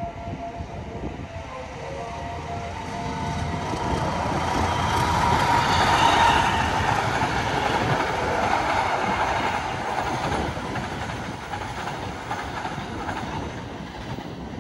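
Joglosemarkerto passenger train passing along the line: a rushing rumble of wheels on rail that builds to its loudest about six seconds in, then slowly fades as the carriages go by.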